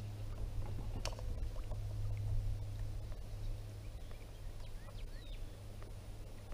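Kayak on the water: a steady low rumble of hull and water noise, with small scattered clicks and one sharper knock about a second in. A few faint high chirps come through near the middle.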